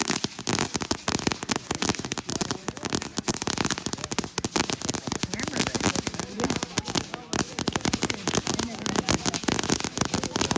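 Fireworks crackling: a dense, continuous run of rapid small pops, with a brief break about seven seconds in.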